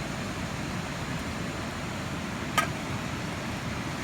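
Steady hiss of background noise with a single sharp crackle from the campfire about two and a half seconds in.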